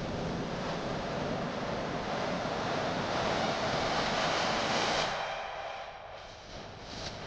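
Steady rushing noise of wind and sea waves on the microphone, easing off about five seconds in.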